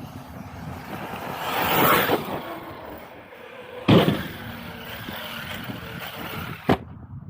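Arrma Outcast 6S electric RC truck's brushless motor whining as it speeds up and passes, swelling then fading. A sharp loud thump comes about four seconds in, and a smaller knock near the end.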